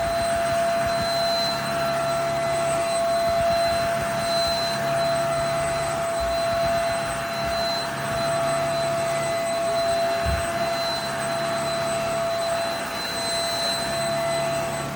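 JPHYLL Ultra-UVC-K16 corded mattress vacuum running steadily: a rush of air with a constant motor whine. A brief low thump about ten seconds in.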